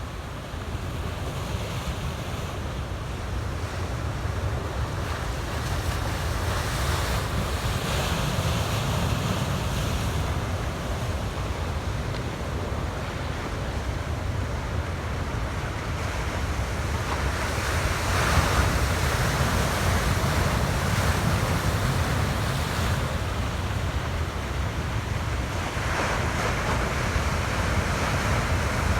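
Pacific Ocean surf washing onto the beach, with wind rumbling on the microphone. The wash swells louder three times as waves break.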